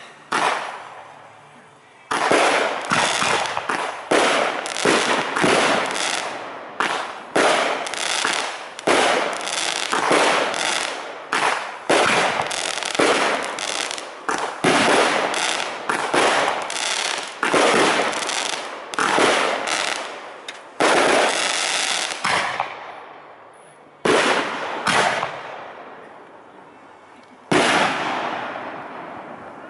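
Aerial firework shells bursting one after another, several a second for about twenty seconds, each report trailing off in echo. Then a pause and a few separate bursts near the end.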